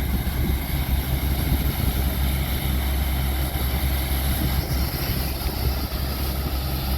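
Heavy diesel farm machinery running steadily, a continuous low engine hum, while the combine unloads soybeans into the grain trailer.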